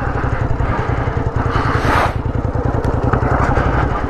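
Sport motorcycle engine running at low, steady revs with a rapid pulsing exhaust note as the bike rolls along. A short rush of hiss swells up about a second and a half in.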